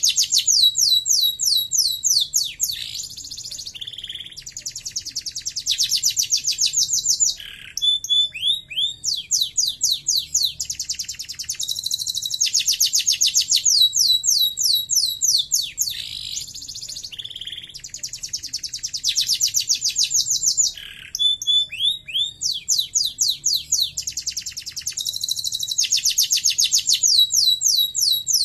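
Domestic canary singing a long song of rapid, high-pitched trills: phrase after phrase of fast repeated notes, each phrase a second or more long, changing in pitch and speed from one to the next, with brief breaks between them.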